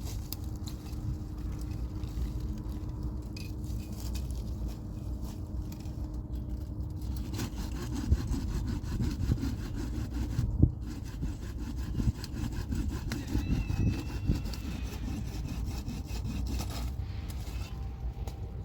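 Hand saw cutting through firewood in steady, repeated back-and-forth strokes, growing more even and regular partway through.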